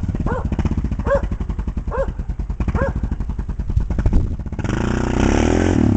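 Arctic Cat 650 H1 ATV engine running at low speed with an even, rapid beat, then revving up hard about four and a half seconds in as the throttle is opened for a wheelie.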